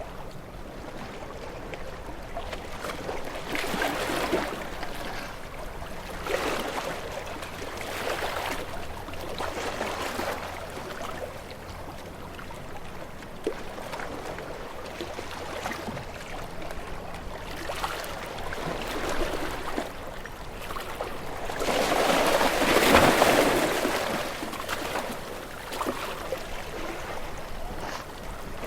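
Ocean waves washing in and drawing back in repeated swells, with one larger wave surging in about two-thirds of the way through.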